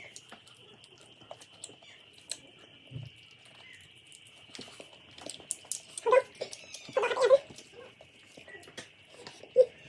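Short pitched cries from a pet animal, two of them about a second apart in the latter half, among scattered small clicks and a faint steady high whine.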